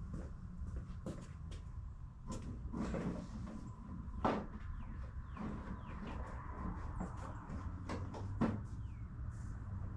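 Irregular knocks and clicks of things being handled and moved while someone looks for a funnel, like cupboards or drawers opening and items clattering, with a few louder knocks about four and eight and a half seconds in. A low steady hum runs underneath.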